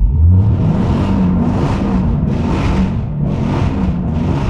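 Dodge Challenger Hellcat's supercharged 6.2-litre V8 comes on hard at full throttle during a drift, with tyre hiss from wheelspin on wet road, surging about twice a second as the throttle is worked.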